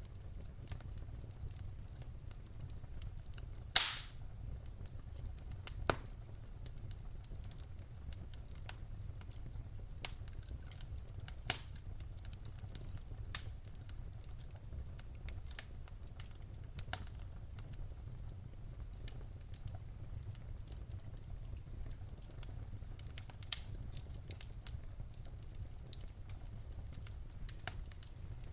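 Wood fire crackling in a fireplace: scattered sharp pops and snaps from the burning logs over a low steady rumble, the loudest pop about four seconds in.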